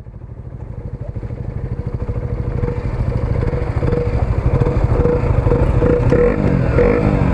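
A 125cc single-cylinder motorcycle engine running steadily, fading in over the first few seconds.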